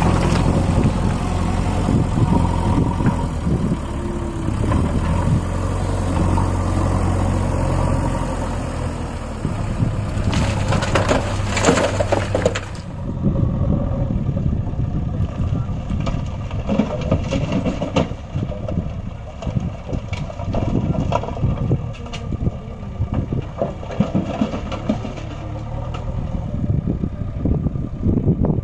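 Tractor diesel engine running, with a steady low hum for the first half. The sound changes abruptly about halfway through, with irregular knocks and rattles over the engine after that.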